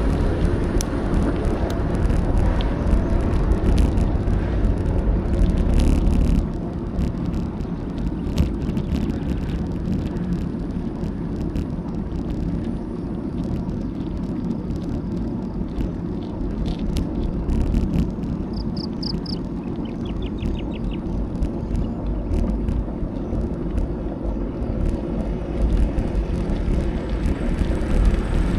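Wind rushing over an action camera's microphone and tyre rumble from a bicycle on the road: a steady low noise that eases a little about six seconds in, with scattered light ticks and two short high chirping trills about two-thirds of the way through.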